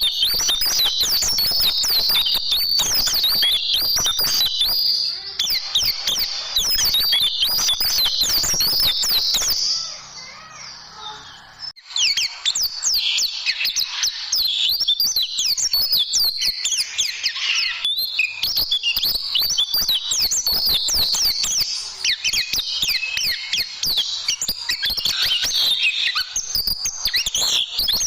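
White-eye (pleci) song: a dense, fast run of high chirps and quick falling whistled notes. There is a short lull about ten seconds in, then the song resumes.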